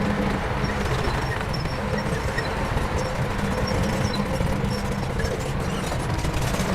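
Heavy diesel earthmoving machinery running steadily, a low rumble with a faint steady hum.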